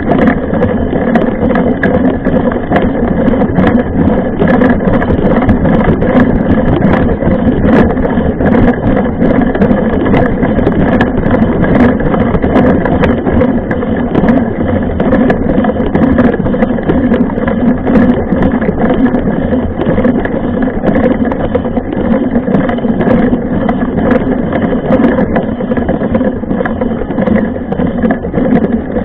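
Mountain bike being ridden over a rough dirt trail, heard from a camera mounted on the bike or rider: a steady loud rumble with many small rattles and knocks.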